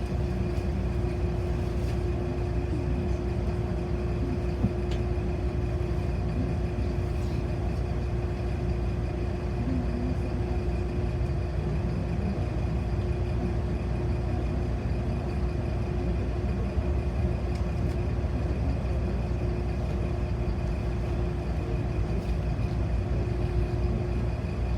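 City bus in motion, heard from inside the passenger cabin: a steady low rumble of engine and road with a steady hum over it.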